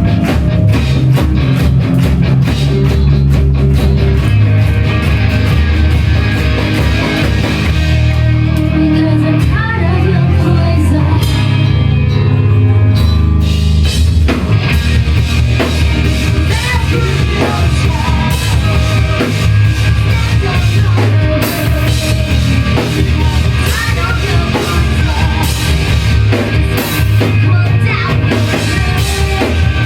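A rock band playing live: electric guitars, bass and a drum kit at full volume, with the cymbals dropping out for a couple of seconds about halfway through.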